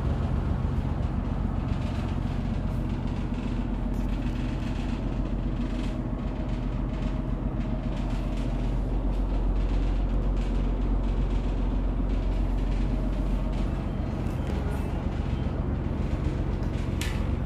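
Houseboat engine running steadily with a low, even hum, with a brief high squeak near the end.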